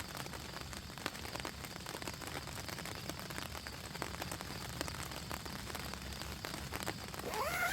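Steady rain falling, with many small drop ticks. Near the end a brief pitched call rises and falls over it.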